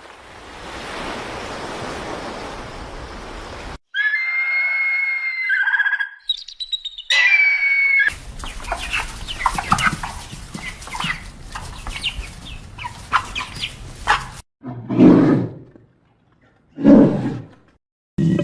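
A run of different animal calls cut together: first a steady hiss, then clear whistled bird-like calls, then a busy stretch of many short chirps, and near the end two loud, short calls about two seconds apart.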